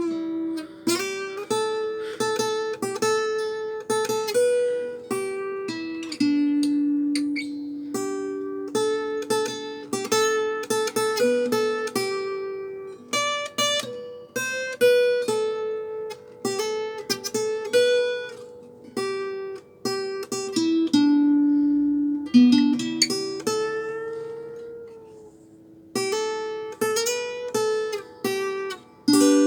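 Acoustic guitar played solo with no singing. Picked melody notes and strummed chords follow one another steadily, each note struck and then ringing out.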